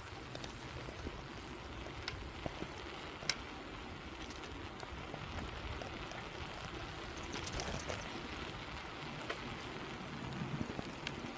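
Steady rolling noise of a bicycle being ridden, its tyres running over the road surface, with a few small clicks and rattles.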